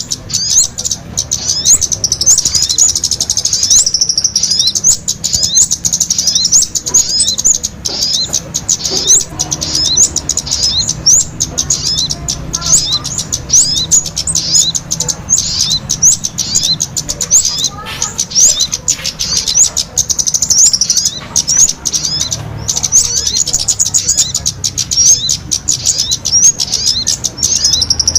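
Small birds chirping in a rapid, unbroken stream of quick, high-pitched notes: a bird-lure (pikat) call recording played to attract small birds.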